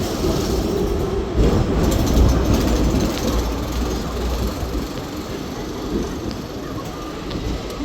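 Hong Kong double-decker tram running along its street rails, heard from aboard: a steady low rumble of wheels and motor that grows quieter about five seconds in.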